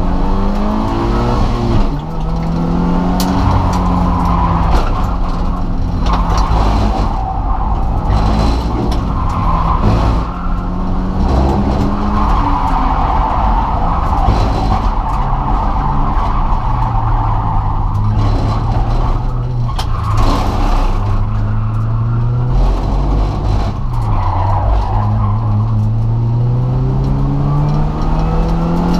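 Naturally aspirated Subaru Impreza flat-four engine heard from inside the cabin while driven hard. The pitch climbs steadily as it pulls through the revs, drops sharply a few times (about two seconds in, around ten seconds and around twenty-four seconds), then climbs again near the end.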